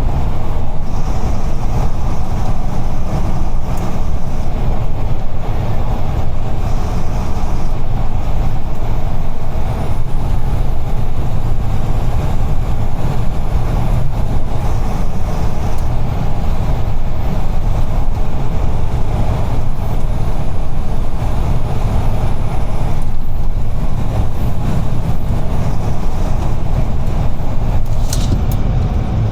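UD Trucks Quon heavy diesel truck on the move, heard from the cab: a steady, loud low drone of engine and road noise.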